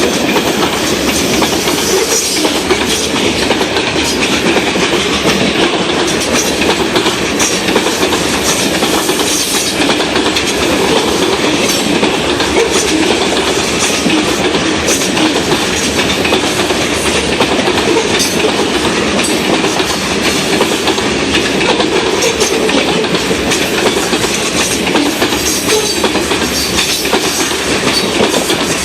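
Grain train cars rolling past on jointed rail, a steady rumble of wheels with clicks as the wheels cross the rail joints.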